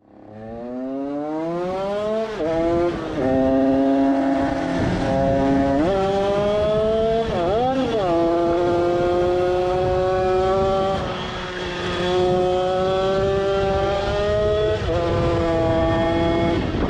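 Tuned small two-stroke engine with a 76 cc TPR cylinder, 24 mm Mikuni carburettor and DRP expansion-chamber exhaust. It revs up over about two seconds, then runs at high, nearly steady revs, with a few brief dips in pitch.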